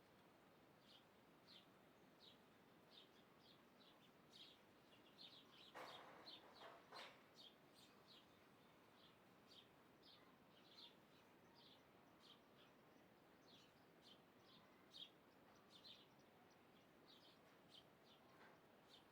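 Faint birds chirping: short, high chirps repeated over and over, with a few louder sounds about six to seven seconds in.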